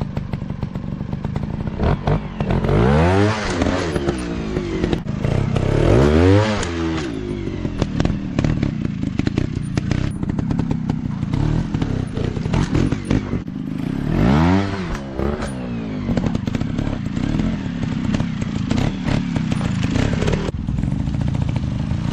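Dirt bike engines running and revving, the pitch swelling up and falling back several times, with clattering knocks throughout.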